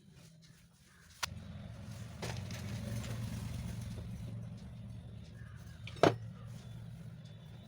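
A click, then a low steady mechanical hum that swells and holds, with one sharp knock about six seconds in.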